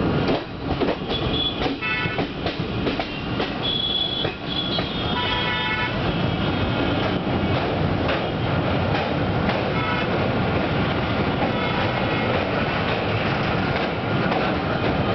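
Passenger train running at speed, heard at an open coach window: a steady rumble and rattle of wheels on the track as it crosses a steel girder bridge. Short horn toots sound twice in the first few seconds.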